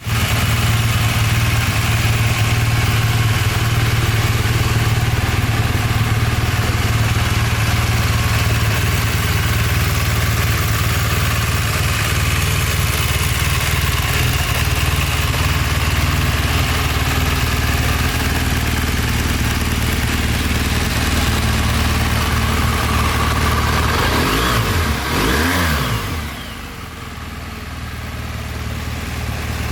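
BMW R1200GS boxer-twin motorcycle engine idling steadily. Near the end the revs rise and fall briefly, and then the sound turns quieter for a few seconds.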